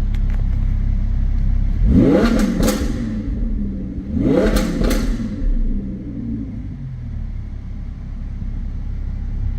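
Audi R8's 5.2-litre V10 idling and blipped twice, a couple of seconds apart, each rev climbing sharply and falling back to idle. A steady low rumble of wind on the microphone runs underneath.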